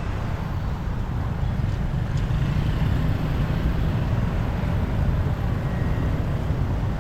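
Steady low rumble of a motorcycle riding through city traffic: engine and road noise with surrounding vehicles.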